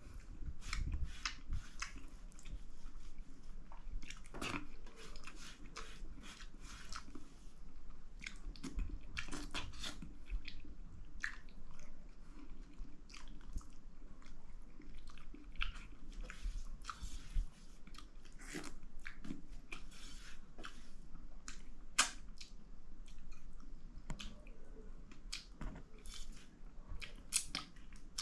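A person chewing mouthfuls of dal bhat close to the microphone, with many irregular sharp wet mouth clicks and small crunches.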